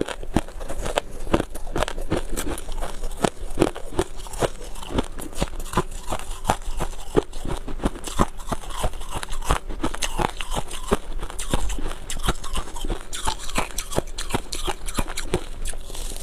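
Close-up crunching and chewing of freezer frost ice in the mouth: a dense run of small, sharp crackles, irregular and continuous.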